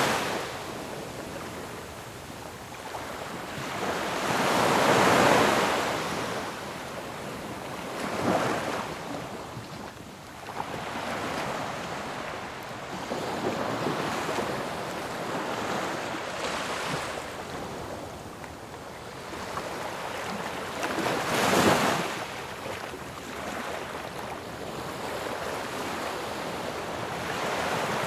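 Ocean waves breaking on a shore: a continuous wash of surf, with the biggest waves crashing about five seconds in, around eight seconds and just past twenty seconds.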